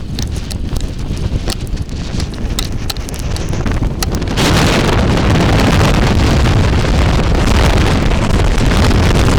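Sandstorm wind buffeting the microphone: a low rumble with scattered sharp ticks, then about halfway in a strong gust makes it much louder and hissier, and it stays that way.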